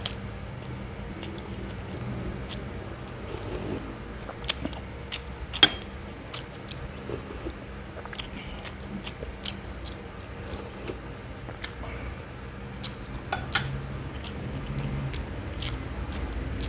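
A man chewing a mouthful of boiled pork leg and rice, with wet mouth sounds and many short sharp clicks and smacks. Two clicks are much louder than the rest, one about five and a half seconds in and one near thirteen and a half seconds.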